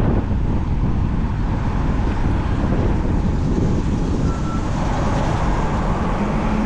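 Steady rush of wind on the microphone mixed with road traffic noise while riding along a road.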